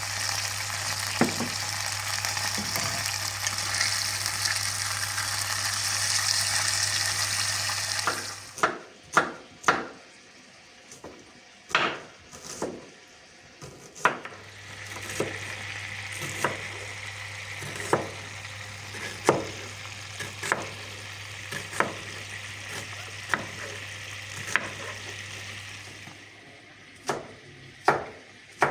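Food frying in hot oil in a pan, sizzling steadily, while a utensil stirs it and knocks against the pan about once a second. The sizzle cuts off abruptly about eight seconds in, leaving only the separate knocks, comes back around the middle and drops out again near the end.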